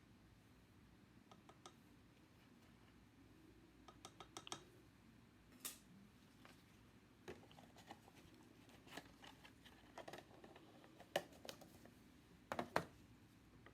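Scattered light clicks and taps of hands handling a small container of gold leaf paper and a cup of epoxy resin, at irregular intervals with the sharpest ones near the end, over a faint steady hum.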